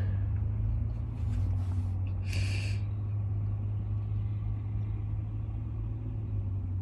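Car engine idling, a steady low hum heard inside the cabin. About two and a half seconds in there is a short breathy sniff from someone who has been crying.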